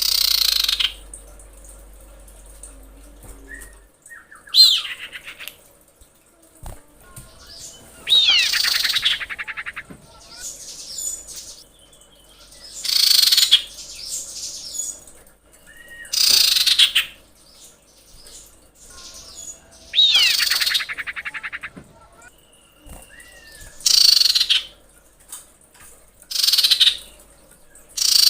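Common iora (cipoh) calling: a loud, harsh, falling call repeated roughly every four seconds, with short fainter whistled notes in between. This is the female's call used to lure males.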